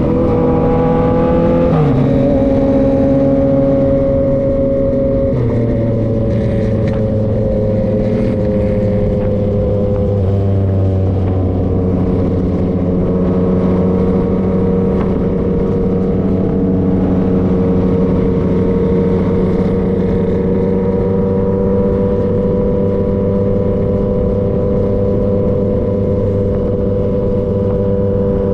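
2023 Yamaha XSR900's three-cylinder engine running through an SC-Project CRT exhaust under way. The engine note shifts in pitch a few times in the first ten seconds or so, then settles into a steady cruise with slight rises and falls.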